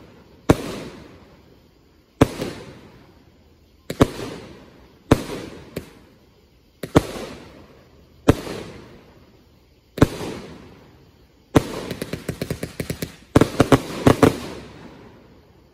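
A 500-gram Magical Barrage firework cake firing. Single loud bangs come about every one and a half to two seconds, each trailing off in echo. Near the end a rapid string of smaller reports leads into a quick volley of loud bangs.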